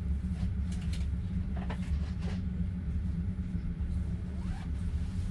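Steady low rumble inside an open-plan sleeper carriage of a moving passenger train, from the wheels and running gear on the track. A few faint, brief higher sounds rise over it now and then.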